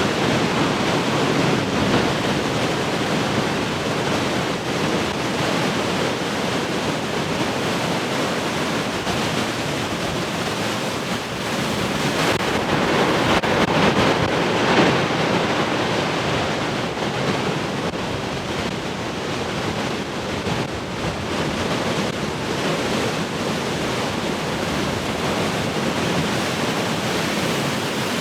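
Massive ocean waves breaking continuously as heavy surf, a dense unbroken wash of water noise that swells louder about halfway through.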